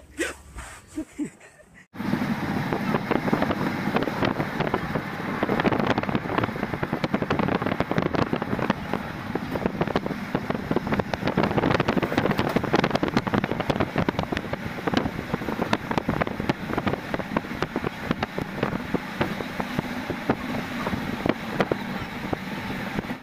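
Running noise of a moving passenger train, dense rattle and clatter with wind on the microphone, starting abruptly about two seconds in.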